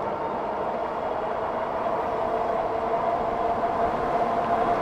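Electric bike riding at speed: a steady whine at an unchanging pitch over a wash of wind and road noise, growing gradually louder.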